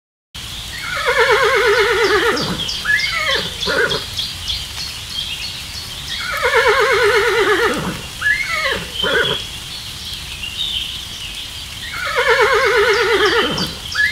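Horse whinnying: the same long, quavering neigh followed by a couple of short calls, repeated three times about six seconds apart.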